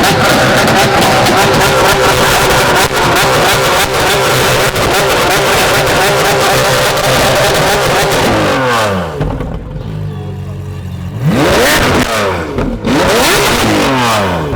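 Loud car engine revved hard and held high for several seconds, with crackling pops through it. The revs then fall away, and after a short lull it is blipped up sharply once more and drops back down.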